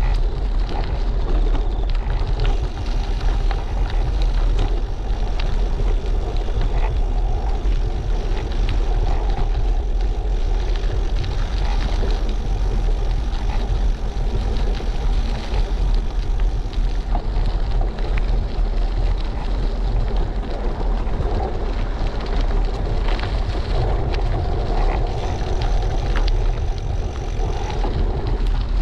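Wind buffeting the microphone of a GoPro on a moving bicycle, a steady loud rumble mixed with road noise from the tyres, with occasional knocks from bumps.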